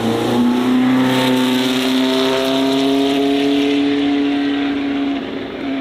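Race car running at speed, a steady pitched note rising slowly in pitch, easing off slightly near the end.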